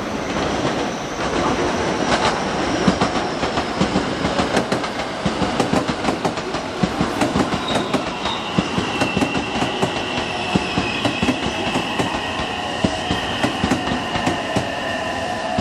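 Train running over the rail joints, with a fast, uneven run of wheel clicks throughout. About halfway through a thin, high, steady squeal of the wheels joins in.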